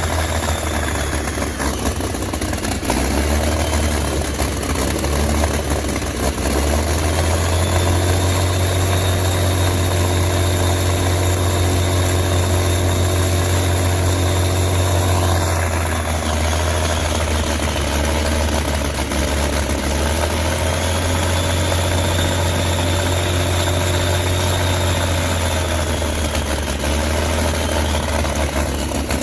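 Daimler-Benz DB605 inverted V12 aircraft engine running. Its speed rises about seven seconds in and eases back after a while, then rises and falls once more near the end.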